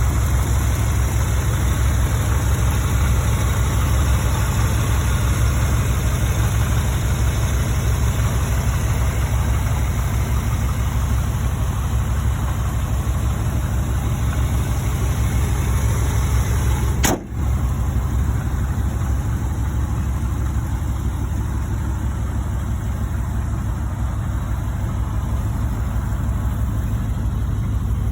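1982 GMC 2500 pickup's engine idling steadily with a low rumble. About seventeen seconds in there is a single brief click and a momentary dip in level.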